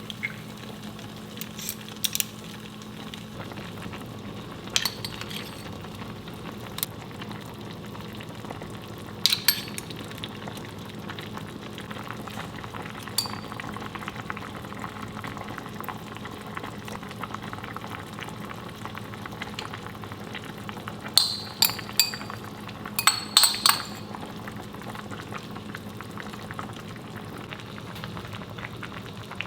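Kimchi tofu stew cooking in a pot, with a steady sizzle. A metal utensil clinks against the pot now and then, several times in quick succession about three quarters of the way through.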